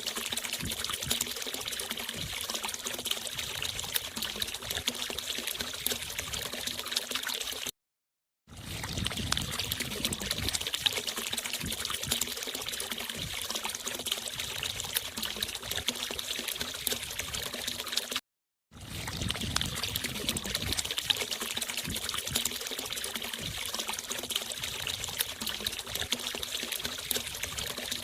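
A stream of water from a mini water pump pouring and splashing steadily. The sound cuts out to silence twice for a moment, about a third and two thirds of the way through.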